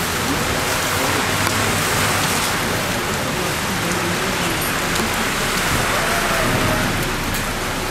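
Heavy rain falling steadily on a flooded street, with car tyres swishing through standing water.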